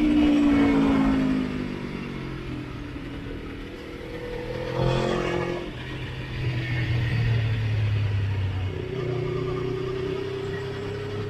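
Sport motorcycle engine under way on the road, its revs falling off at the start, then a short rev about five seconds in, then pulling steadily.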